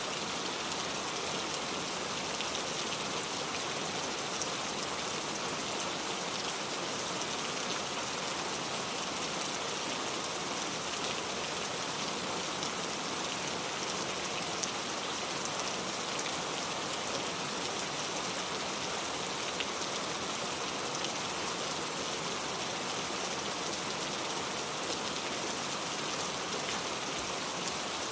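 Steady rain falling, an even hiss of many drops with faint individual drop ticks, no thunder.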